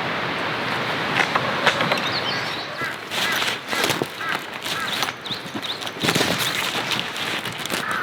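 Rain falling steadily, with irregular clicks and knocks over it, heaviest about three to four seconds in and again about six seconds in.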